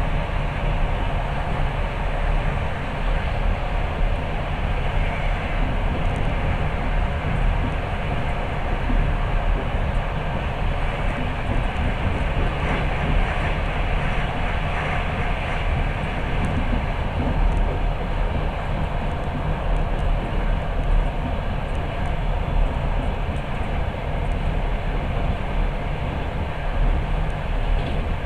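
Passenger train running, heard from inside the carriage: a steady rumble of the wheels on the rails.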